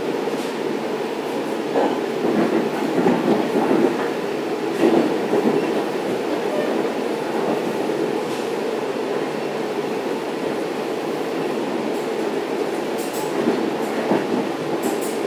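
Inside a Long Island Rail Road C3 bilevel coach running at speed: a steady rumble of the wheels on the rails, with a few louder swells in the first few seconds and some faint clicks near the end.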